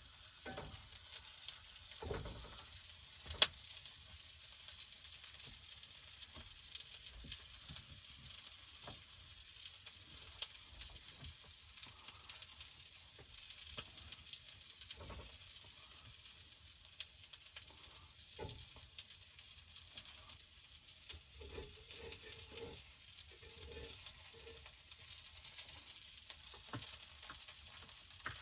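Food sizzling steadily in a hot frying pan on a camp stove, with scattered light clicks and taps of a utensil or dish.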